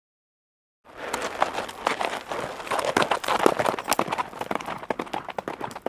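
Hooves clattering on hard ground: many quick, irregular hoofbeats of running animals, starting about a second in after a short silence.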